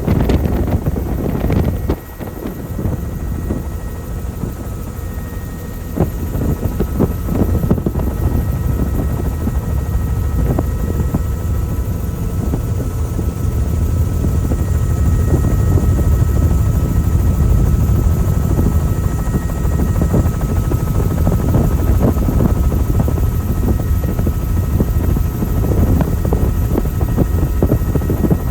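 Helicopter in flight: steady rotor and engine noise with a faint high whine, dipping briefly about two seconds in.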